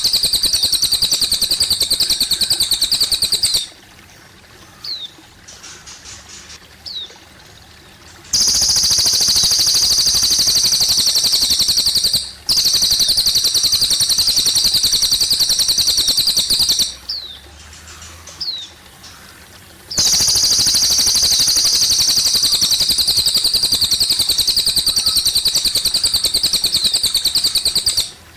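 A cililin songbird singing long, loud, rapidly trilled buzzing phrases, three long bouts several seconds each, with a few short chirps in the pauses between them. Trickling water runs quietly underneath.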